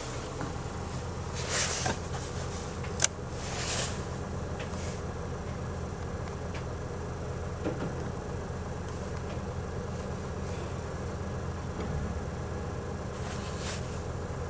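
2002 Chevrolet Cavalier's four-cylinder engine idling steadily, still cold just after a cold start in about minus 20 weather. Over it come a few short hissing noises and one sharp click about three seconds in.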